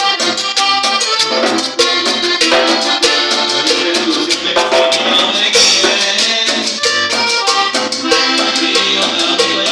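Norteño band music in an instrumental passage: accordion melody over a stepping bass line and a steady drum beat.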